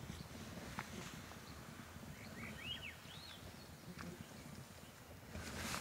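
Faint open-field ambience with a few short bird chirps near the middle, each rising and falling in pitch.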